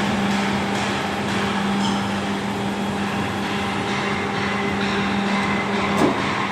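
Hydraulic profile bending machine running, its pump motor giving a steady hum over a mechanical hiss, with a sharp knock near the end.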